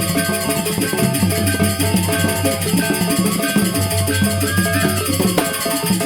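Balinese geguntangan gamelan ensemble playing: dense, fast metallic percussion over a repeating low pulse, with long held melody tones above.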